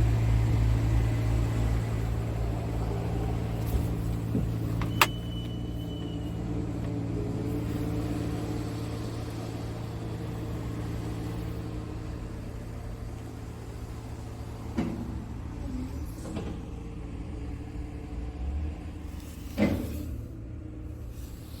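Scania S tractor unit's diesel engine idling steadily, slowly getting quieter, with a sharp click and a short high beep about five seconds in and a few knocks later on.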